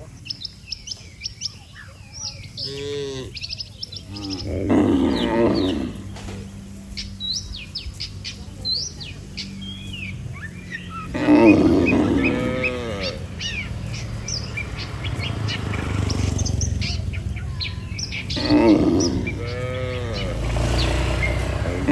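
Cattle mooing several times, long drawn-out calls, with small birds chirping throughout.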